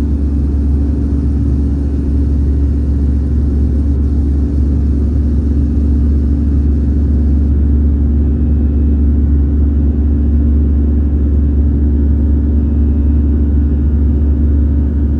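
Airbus A319 jet engines and airflow droning steadily through the cabin as the plane climbs after takeoff: a loud, even low rumble with a steady hum in it.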